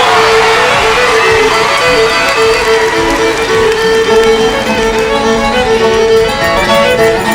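Upbeat country music in an instrumental break: a fiddle plays a fast tune with quick repeated notes over strummed guitar.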